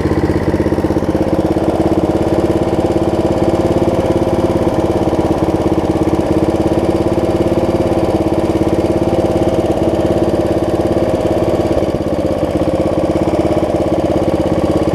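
Snapper rear-engine riding mower's engine running steadily and smoothly, its carburetor freshly cleaned.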